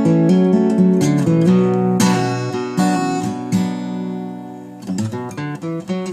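Acoustic guitar in standard tuning, capoed at the second fret, playing an instrumental tune with strummed and picked notes. A chord about two seconds in rings out and fades, and quicker notes come back near the end.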